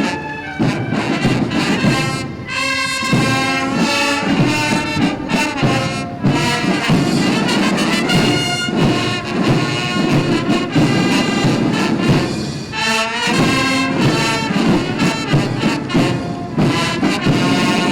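A military brass band playing, trumpets and trombones carrying the tune, with brief pauses between phrases about six seconds in and again near thirteen seconds.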